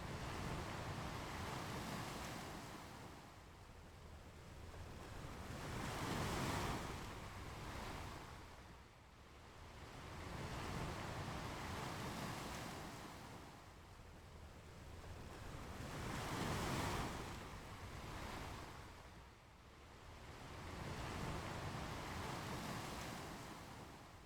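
Ocean surf breaking and washing up a beach, the noise swelling and ebbing in slow waves about every five seconds.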